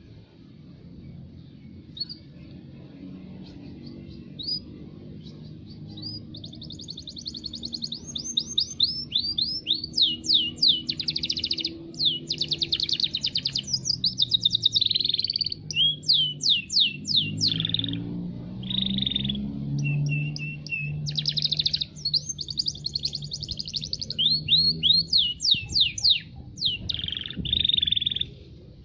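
Domestic canary singing. A few scattered chirps grow into continuous song from about six seconds in: fast rolling trills and runs of quick sweeping notes, stopping just before the end.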